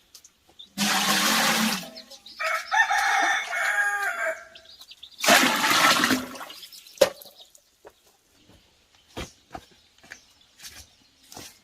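A rooster crowing once, a long call of a little over two seconds, set between two loud one-second bursts of rushing noise. Faint scattered knocks follow in the second half.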